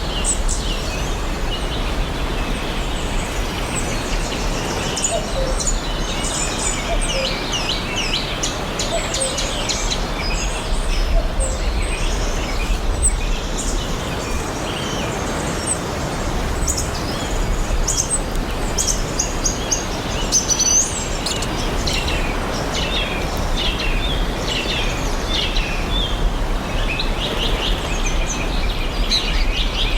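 Several forest birds chirping and singing at once, many short, quick notes and trills overlapping throughout, over a steady background hiss.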